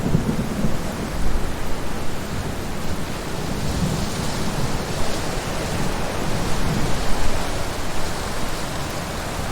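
Heavy rain pouring steadily, with a low rolling rumble of thunder underneath.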